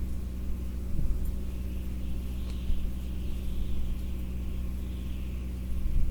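Steady low engine-like hum, with a few soft knocks about a second in and again a little later.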